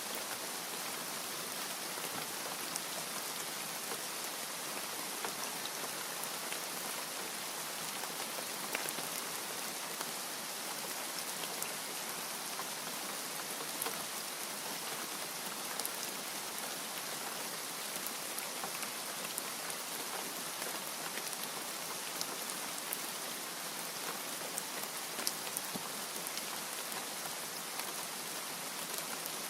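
Steady rainfall, a continuous even hiss with the scattered light taps of individual drops hitting a surface.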